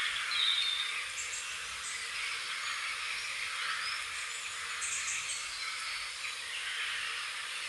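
Birds chirping: a few short, high bird notes over a steady high-pitched background hiss.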